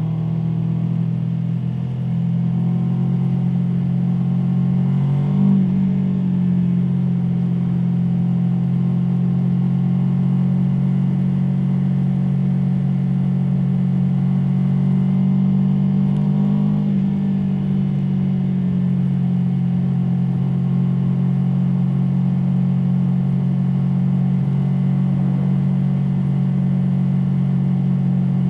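Aprilia Tuono V4 motorcycle's V4 engine running under way, its pitch climbing slowly, with a short sharp dip about five seconds in and another about seventeen seconds in before it climbs again.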